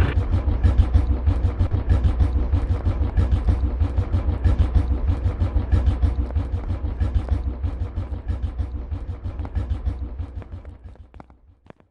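Tractor diesel engine running with a deep, rapid, even exhaust beat, which fades away over the last few seconds until it is gone.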